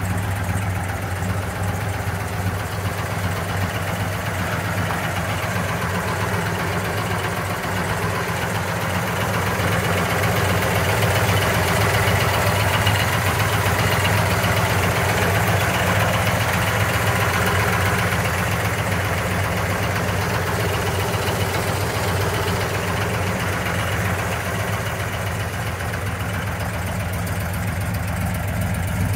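1970 Chevrolet Chevelle SS 396's big-block V8 idling steadily, growing somewhat louder for several seconds midway through.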